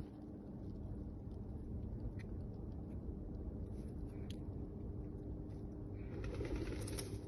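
Pigeons cooing over a low, steady background rumble, with a brief rustling burst near the end.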